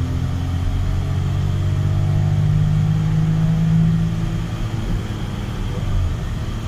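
Volkswagen Polo's 1.0-litre three-cylinder petrol engine heard from inside the cabin, revving hard under full acceleration in second gear, its note rising steadily toward about 6000 rpm. About six seconds in, the note breaks off as it shifts up to third.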